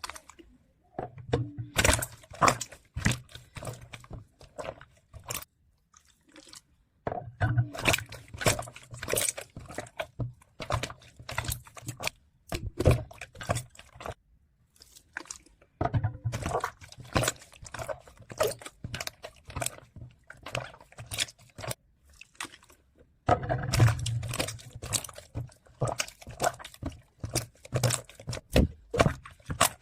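Slime being squished and pressed by hand, giving dense crackling clicks and small wet pops, in four spells broken by short pauses.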